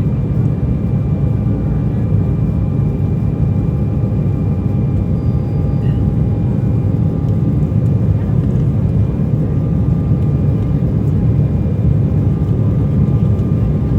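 Airbus A320 jet engines and rushing air during the takeoff climb: a loud, steady, low rumble with a few faint steady whining tones above it.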